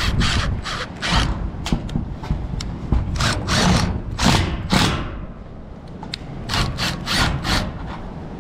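A series of short knocks and scrapes from sheet steel and tools being handled against the barn's old wooden wall between drillings, over a low rumble; the drill is not running.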